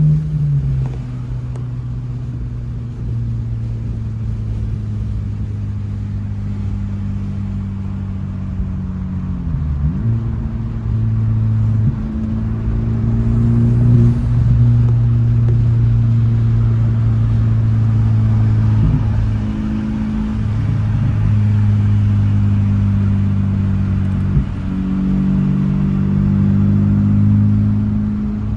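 Honda Civic Type R FL5's turbocharged four-cylinder running through an AWE Track exhaust while driving, a steady low exhaust tone that briefly drops and breaks about four times.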